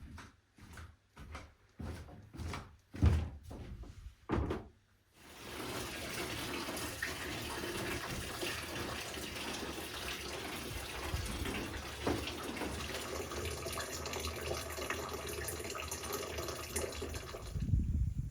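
Liquid running steadily for about twelve seconds, like water from a tap or a steady pour. It is preceded by several short separate sounds in the first five seconds.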